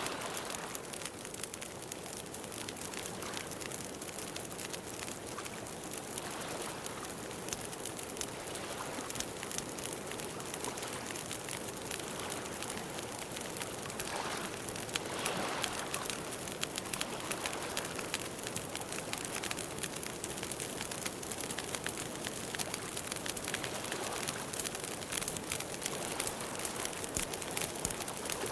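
Campfire burning, a steady crackle with many small sharp pops.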